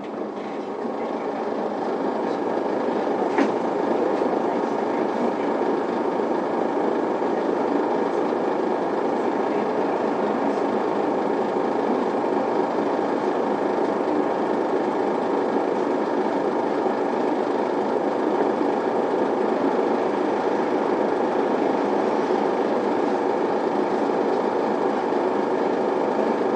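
Interior running noise of an Isuzu PKG Erga diesel city bus: engine and road noise, growing louder over the first couple of seconds and then steady as the bus drives along.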